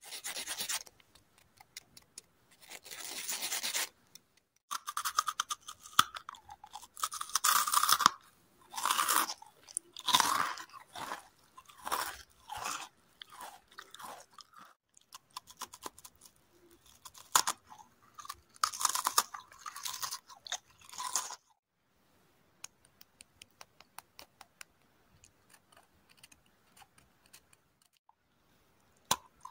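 Close-miked mouth chewing and crunching crunchy, crumbly food in loud bursts. After about twenty seconds the crunching stops and only soft, sparse mouth clicks remain, with one sharp bite near the end.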